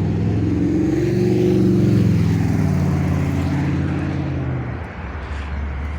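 A car driving past with its engine note rising a little, then falling away and fading out about five seconds in.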